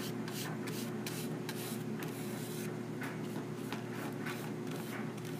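Paintbrush strokes on a plate: short scratchy swishes at an irregular pace, over a steady low hum.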